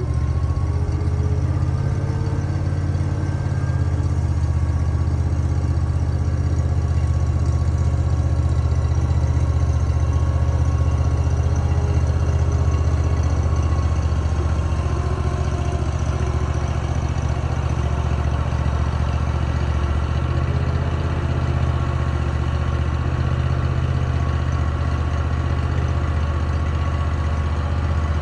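Large engine idling steadily, just after being started.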